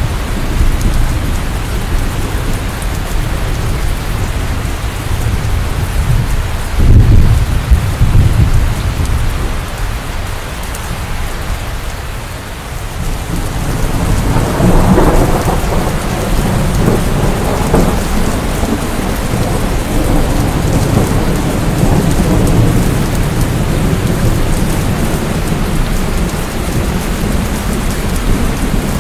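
Steady rain in a thunderstorm. A sudden loud, low clap of thunder comes about seven seconds in, and a longer rumble of thunder builds about halfway through and slowly dies away.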